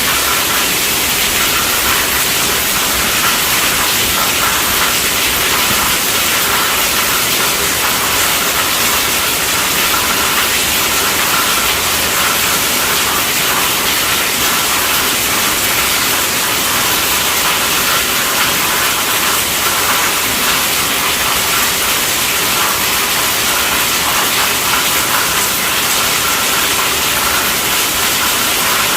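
Heavy rain drumming steadily on a tent roof, a dense even hiss without let-up.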